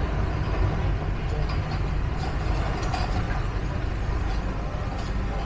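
Steady low engine rumble with faint ticks and clatters over it.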